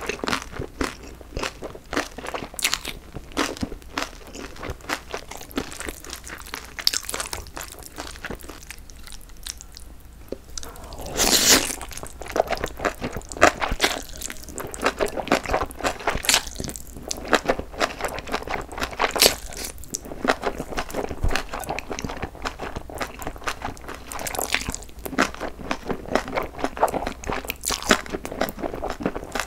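Close-miked chewing of spicy chewy cold noodles (jjolmyeon) with bean sprouts: wet chewing and crunching, many small rapid clicks. About eleven seconds in comes a longer, louder mouthful sound as a fresh bite of noodles is taken.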